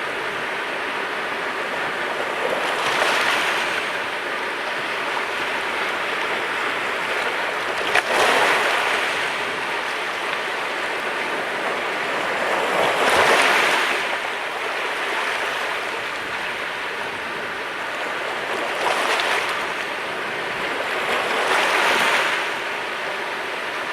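Mediterranean sea waves washing onto the shore, a steady surf with five swells of louder breaking water, and a brief sharp crack about eight seconds in.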